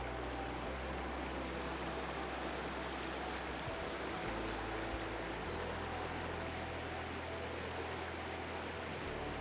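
A stream flowing steadily, an even rush of water with no breaks.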